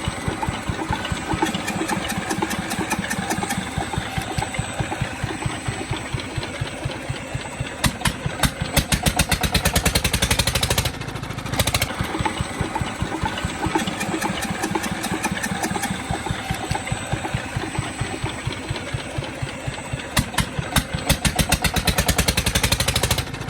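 Tubewell diesel engine running with a rapid, regular train of firing thumps, growing louder twice and briefly dropping away for about a second in the middle.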